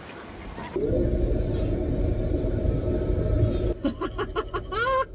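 A loud, steady low rumble with a hum, starting suddenly about a second in and stopping near four seconds in, followed by music.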